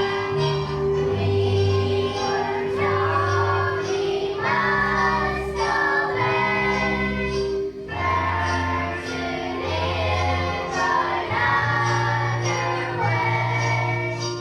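Children's choir singing over an instrumental accompaniment with a steady bass line.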